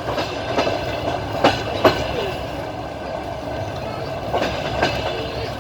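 Passenger train's wheels knocking over rail joints in pairs of sharp clicks, the two axles of a bogie crossing each joint in turn, over the steady rumble of the moving carriage.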